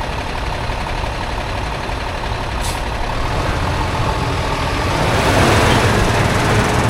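Heavy vehicle rumble that grows louder from about halfway through, with a short high click a little before the middle.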